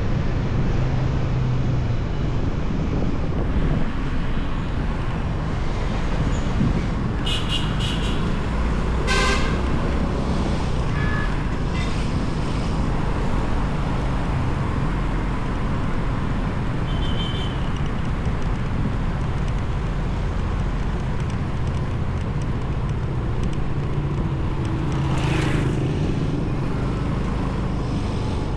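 Motorbike riding in road traffic: a steady rumble of engine and road noise, with short vehicle horn toots several times in the middle stretch.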